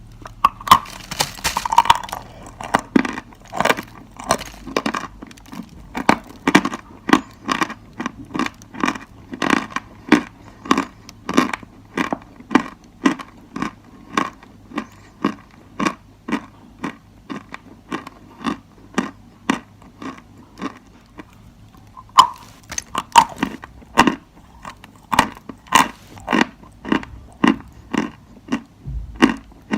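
Dry chalk being bitten and chewed close to the microphone: a long run of sharp, dry crunches, roughly one to two a second, with softer crunches for a while a little past the middle.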